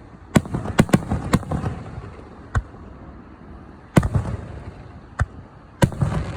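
Aerial fireworks going off: about eight sharp bangs, four in quick succession in the first second and a half, then single bangs spaced a second or so apart, with a low rumble and crackle between them.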